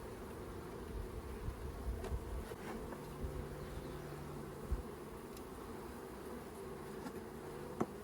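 Swarm of honey bees buzzing steadily around an opened package box during installation into a hive. A lower steady hum joins about three seconds in, and a few low knocks and a sharp click sound over it.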